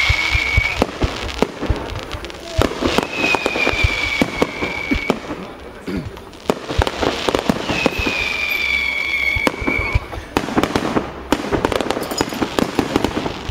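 Fireworks display: a dense run of crackling bangs and pops, with three long high whistles of about two seconds each.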